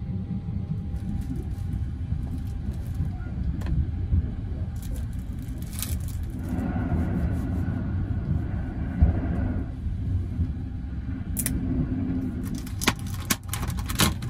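Sunrise Izumo sleeper train running, a steady low rumble of the carriage heard inside the compartment. Over it, crackling clicks of a plastic bento lid being handled and pulled open, most of them near the end.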